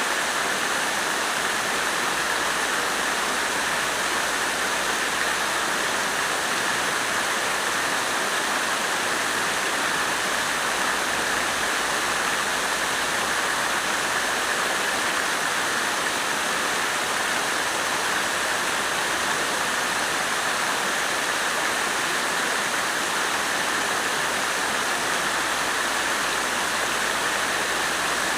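Water fountain splashing steadily.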